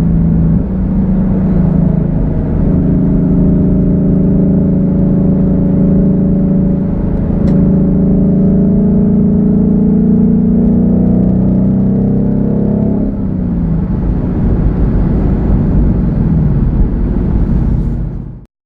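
2016 Ford Mustang GT's 5.0-litre V8 running through a Borla S-Type exhaust: a steady low drone while driving, the pitch slowly rising and then dropping about thirteen seconds in. It cuts off suddenly near the end.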